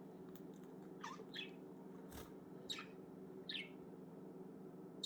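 Budgerigar giving a few short, faint chirps, each falling in pitch, over a steady low hum.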